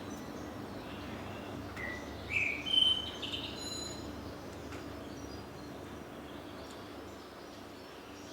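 A bird chirping a few times in short rising calls, over a steady low hum.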